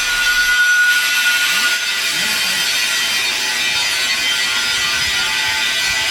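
Stick-welding arc on a 7018 rod, a steady crackling hiss.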